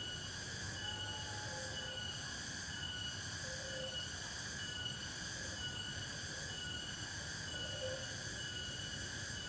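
A chorus of insects in the forest, several steady high buzzes layered together, with one chirp repeating about once a second. A few short lower calls and a low background rumble run beneath it.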